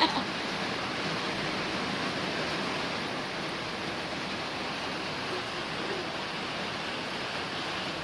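Steady, heavy rain falling, an even hiss with no let-up. A brief sharp knock right at the start.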